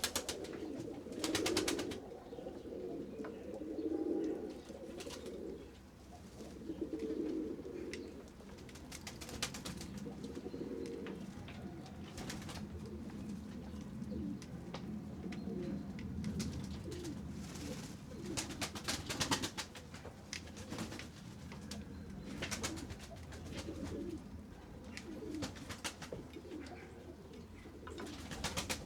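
Pigeons cooing repeatedly, strongest in the first several seconds, with short bursts of quick clicking scattered throughout.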